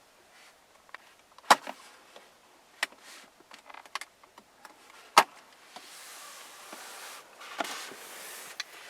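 Sharp clicks of car interior trim and compartments being handled, three of them loud, then a small electric motor whirring for about three seconds in the rear cabin of a Mercedes-Benz S65 AMG.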